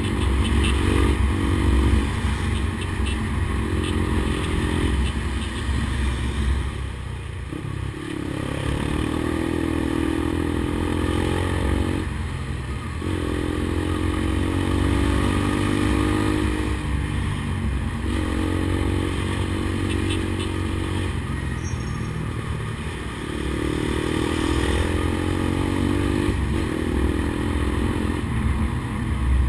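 Honda CBX 200 Strada's single-cylinder four-stroke engine running through a 'pau da Tornado' aftermarket exhaust. The engine repeatedly winds up in pitch over a few seconds and then drops back, about every four seconds, as it is revved or taken through the gears.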